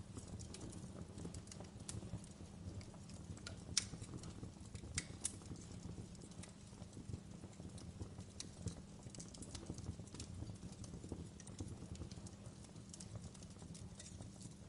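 Wood fire burning in a fireplace: irregular crackles and snaps of the burning logs over a steady low rumble, with a few sharper pops about four and five seconds in.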